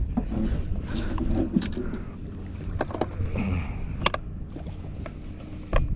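Small boat sitting on choppy water: a steady low rumble of wind and water against the hull, with a few sharp clicks and a louder thump near the end as the fish is handled on deck.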